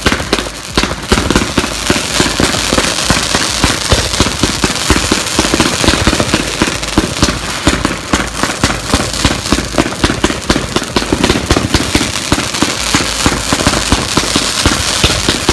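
Consumer firework cake firing a rapid, unbroken barrage of shots, with crackling comet tails and pops.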